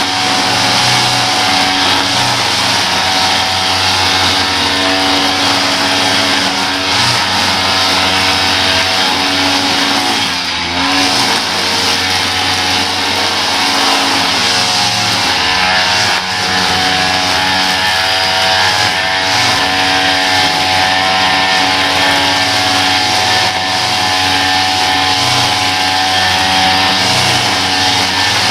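Small petrol engine of lawn-care equipment running steadily at working speed, with a brief dip in pitch about ten seconds in.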